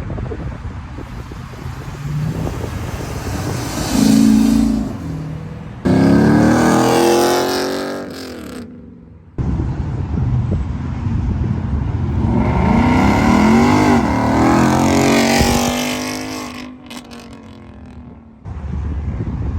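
Car engines revving hard as cars accelerate past, with two loud passes whose engine note climbs and then falls away, and abrupt jumps between passes.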